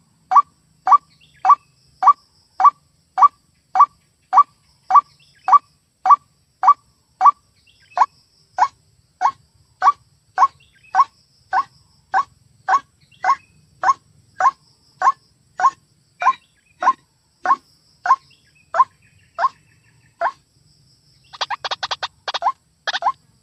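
White-breasted waterhen (ruak-ruak) calling: a steady run of short rising notes, about two a second, then near the end a brief burst of harsher, denser calls.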